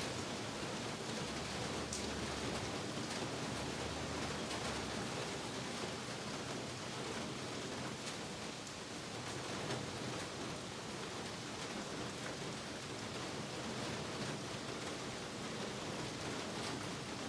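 Heavy rain falling steadily, a dense even hiss with occasional single drop hits standing out.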